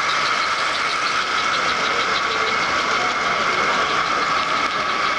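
American Flyer S-gauge Casey Jones 21168 steam locomotive running on the layout: a steady motor whine with a rapid, even ticking of about five ticks a second. The engine runs freely after cleaning and oiling, having been tight from sitting.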